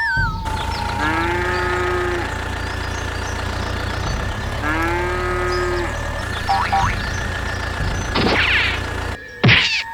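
A cow mooing twice, two long calls about three and a half seconds apart, over a steady low engine rumble.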